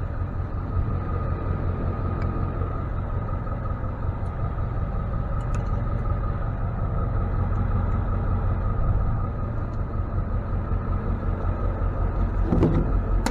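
Tow truck's engine running, a steady low rumble with a faint steady whine above it and a few light clicks. A brief louder noise comes near the end.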